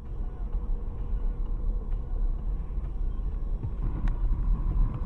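Steady low rumble of a car driving, as picked up by a dashcam inside the cabin, with a faint steady whine over it and a few light ticks.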